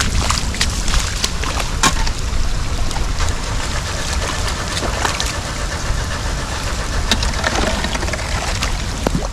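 Floodwater rushing and splashing, with wind rumbling on the microphone and many scattered clicks and knocks.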